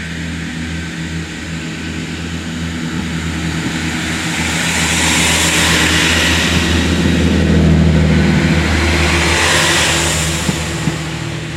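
Class 166 diesel multiple unit passing over the level crossing. Its diesel engines run with a steady low drone, and a rush of wheel and air noise builds to a peak about six to ten seconds in, then fades as it goes by.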